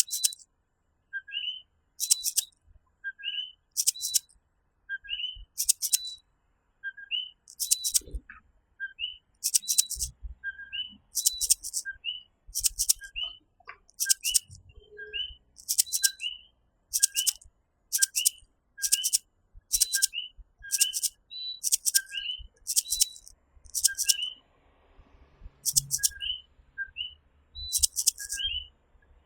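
Common coquí tree frogs calling their two-note "co-quí": a short low note, then a rising higher one, repeated about once a second. Between them comes a louder, higher buzzy pulse at about the same pace from another calling animal of the night chorus.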